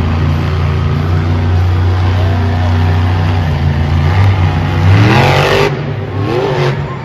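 Monster truck engine running at a steady pitch, then revving up sharply about five seconds in, with a second, shorter rev near the end.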